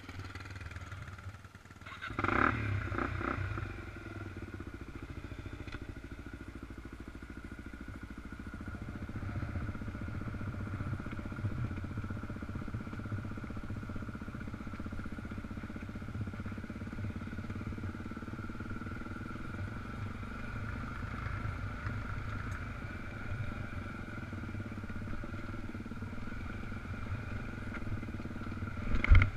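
Dual-sport motorcycle engine running on a trail ride, with a louder burst of revving about two seconds in, then a steady drone. A sharp thump comes near the end.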